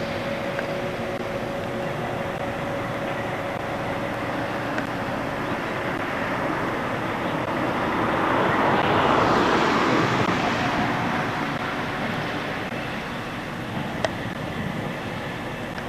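Train running, its noise swelling to a peak about halfway through and then easing off, with a single sharp click near the end.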